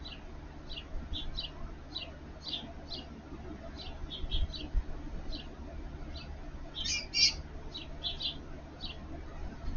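Bird calling: short, sharp chirps repeated about twice a second, with a louder flurry of several together about seven seconds in.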